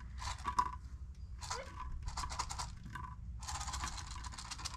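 Packaging being handled: rustling and crinkling in four short bursts over a few seconds, as parts are taken out and sorted.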